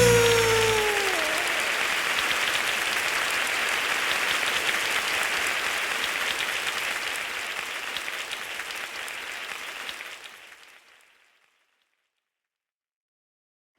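Applause that dies away over about ten seconds into silence, just after a falling tone from a music cue ends in the first second.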